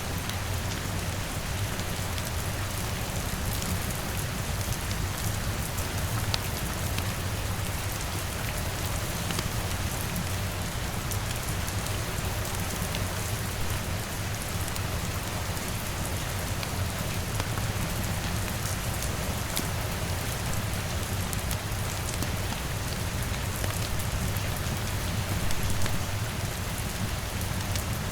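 Steady rain pattering on a window, with small sharp crackles from a wood fire scattered through it and a steady low rumble underneath.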